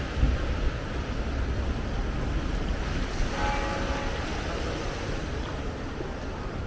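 Sea surf washing in, mixed with wind buffeting the microphone as a low rumble. A short, faint pitched sound comes about halfway through.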